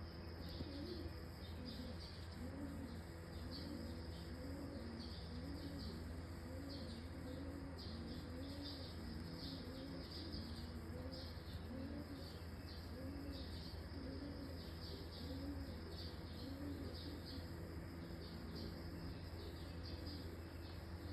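Faint bird calls: a low call that rises and falls, repeated over and over, with higher chirps. A steady low hum runs underneath.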